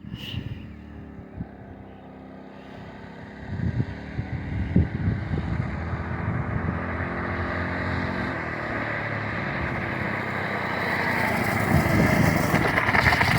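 Engine of a homemade trike running as it rides, quieter at first and getting steadily louder toward the end.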